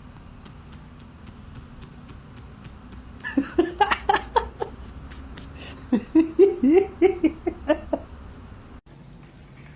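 A person laughing in two bouts of quick, pitched bursts, starting about three seconds in and again about six seconds in.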